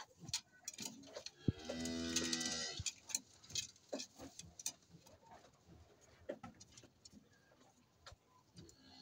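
A cow mooing once, a low drawn-out call of a little over a second, with scattered short clicks and taps around it.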